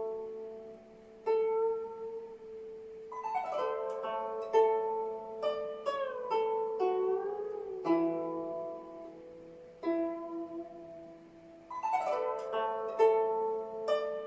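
Guzheng solo at a slow pace. Single plucked notes ring and fade, several bent or wavered in pitch by the left hand, with a quick flurry of notes about three and a half seconds in and again near twelve seconds.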